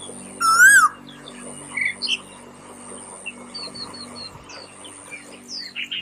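Birdsong: a loud whistled call that rises then falls, about half a second in, then softer chirps and a run of short, high chirps, over a thin steady high-pitched tone.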